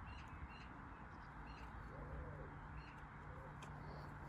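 Faint bird calls, a few short cooing notes with small chirps, over a low steady hum that sets in about a second in.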